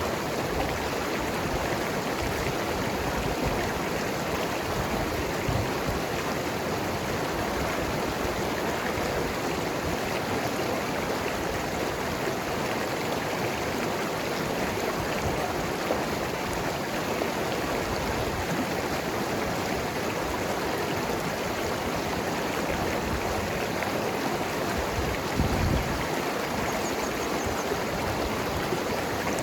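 Mountain river flowing over rocks: a steady rushing and gurgling of water. A brief low bump sounds near the end.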